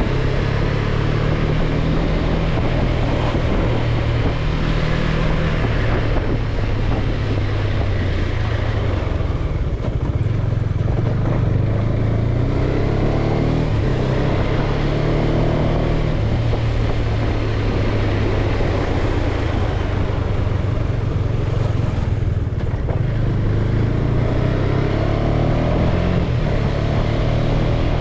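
Motorcycle engine running on the move, its pitch rising and falling with the throttle, over steady wind noise on the microphone.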